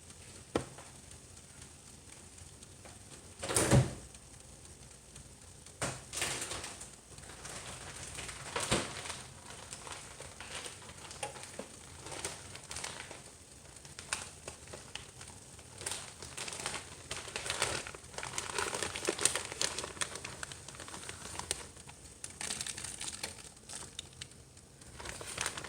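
Plastic packaging crinkling and rustling in the hands, with scattered small clicks, after a single loud knock about three and a half seconds in.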